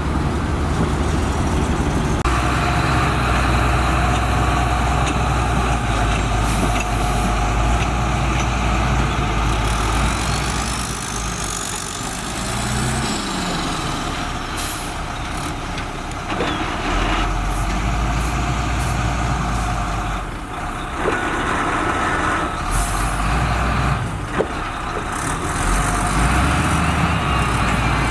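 Diesel engine of heavy road-building machinery running continuously, its level rising and falling with the load, with a few short knocks in the second half.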